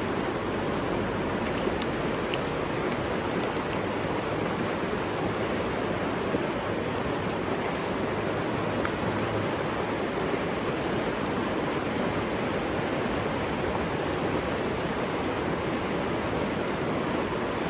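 Steady rushing of a river flowing, an even wash of water noise with no change.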